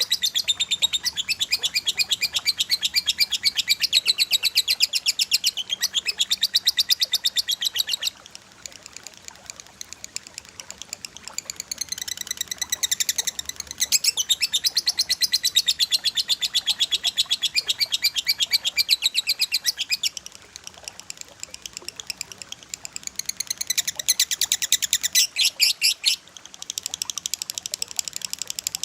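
Small birds singing long runs of rapid-fire, sharp high chirps, many notes a second, the dense 'tembakan rapat' delivery of cage-bird master song. The runs ease into quieter, sparser chirping about eight seconds in and again around twenty seconds, then pick up once more.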